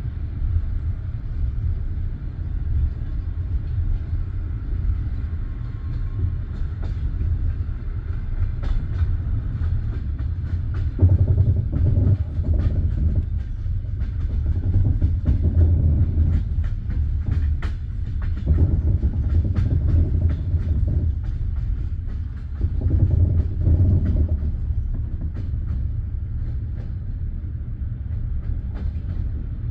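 Railway train wheels clattering over the rails under a steady low rumble. The clatter swells louder several times in the middle, then eases off again.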